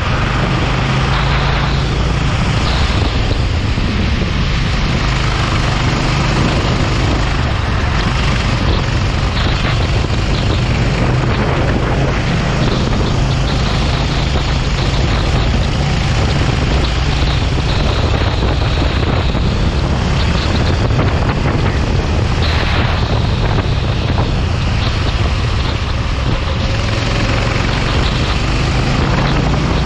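Go-kart engine running hard on track, its note shifting a little up and down, with wind noise on the microphone.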